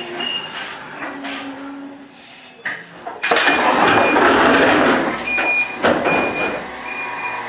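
Toyama Chiho Railway 14760-series electric train standing at a station: about three seconds in, a sudden loud hiss of compressed air lasting about two seconds, then a string of short high electronic beeps repeating at an even pace.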